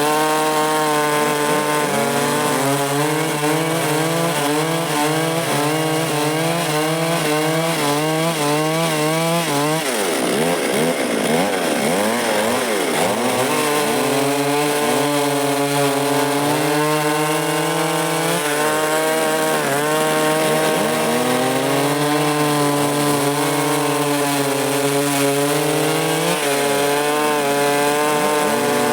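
Stihl MS 382 two-stroke chainsaw with a 24-inch bar running under load, cutting through wood. The engine note holds loud and steady but wavers and dips in pitch several times as the cut bogs it down, with a longer dip about a third of the way in.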